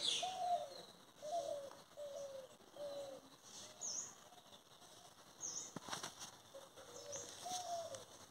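Birds calling: a short, arched low note repeated about once a second, pausing midway, with a few higher chirps from about halfway on.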